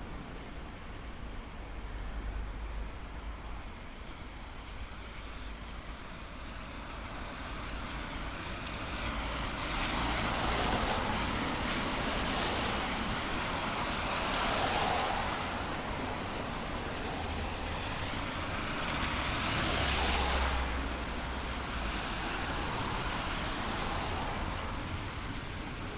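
City traffic on a rain-wet street: car tyres hissing past on wet asphalt, swelling twice as vehicles go by, over a steady wash of rain and distant traffic.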